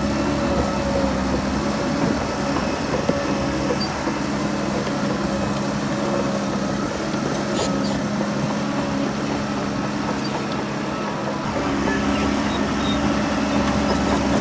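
Heavy diesel engine of earthmoving machinery running steadily, with a few sharp metallic knocks about seven to eight seconds in.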